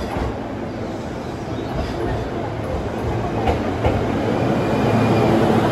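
JR Yokohama Line electric commuter train pulling into the platform. Its wheels rumble on the rails with a few sharp clicks over the rail joints, and it grows steadily louder as the cars draw alongside.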